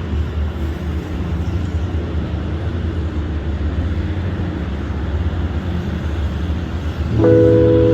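Steady low rumble of passing traffic on a road bridge. A sustained musical chord comes in about seven seconds in.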